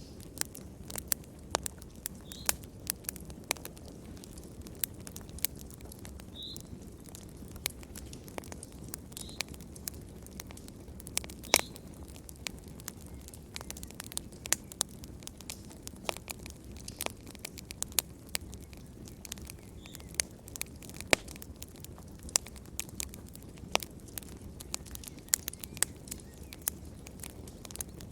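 Wood fire crackling in a fireplace: irregular sharp pops and snaps, several a second, some louder than others, over a steady low rumble of the flames.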